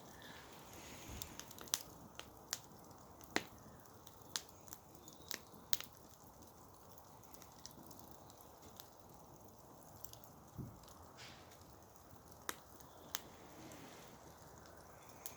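Wood campfire crackling softly, with about a dozen sharp pops at irregular intervals over a faint steady hiss.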